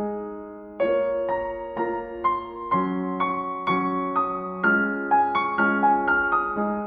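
Slow, gentle piano music: single notes struck about every half second, each ringing on and fading, after a short pause near the start.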